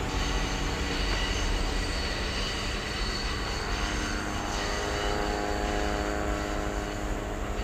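Kintetsu electric train running out of sight, its wheels squealing in steady high tones. From about halfway a lower, many-pitched drone joins in over a low rumble.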